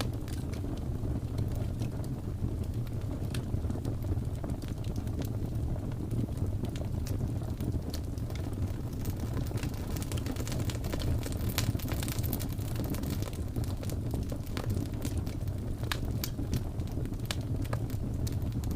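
Wood fire crackling with irregular sharp pops, over the steady low howl of blizzard wind; the crackles come thicker about halfway through.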